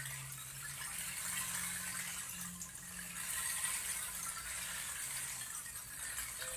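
Stream water running and babbling steadily, with a faint low hum underneath.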